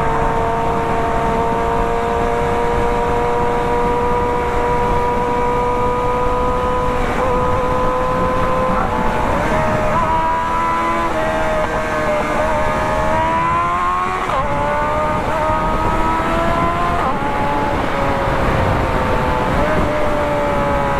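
Engines of a Suzuki Hayabusa superbike and a Lamborghini supercar running at speed over a steady rush of noise. The engine note holds steady and climbs slowly at first, shifts up and down several times through the middle, and eases downward near the end.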